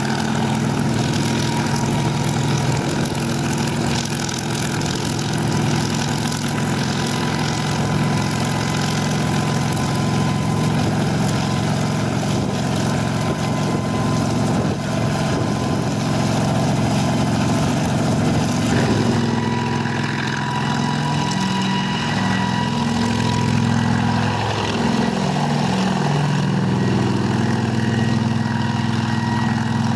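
Kamov Ka-26 helicopter's twin nine-cylinder radial piston engines running steadily. About two-thirds of the way through, the high hiss drops away and the engine's tones begin to waver in pitch.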